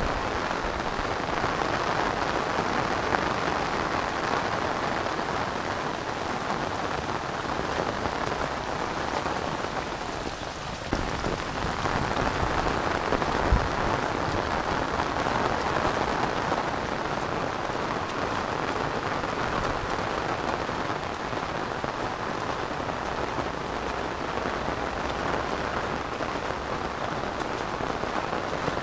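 Heavy rain pouring steadily on rice paddies and on an umbrella overhead, a dense, even hiss. There is a single short knock about halfway through.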